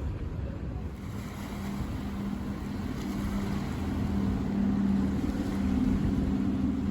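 A large engine's steady low hum, growing gradually louder as it draws nearer.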